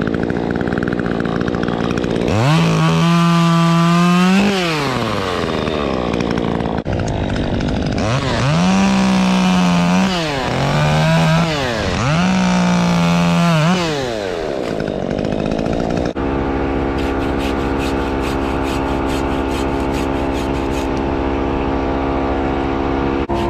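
Two-stroke chainsaw throttled up to full speed in bursts, dropping back to idle in between: one long burst a few seconds in, then three close together past the middle, its pitch falling sharply each time the throttle is released. After an abrupt change, a steady engine drone holds one pitch, with fast ticking over it.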